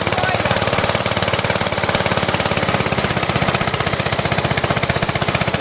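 Rebuilt 12.5 hp Briggs & Stratton engine on a 1999 MTD Yard Machine riding mower running steadily, with a rapid, even firing beat.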